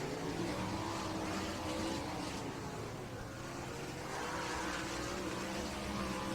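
Several sprint cars' V8 engines running at pace speed, their overlapping pitches rising and falling as the cars circle the track.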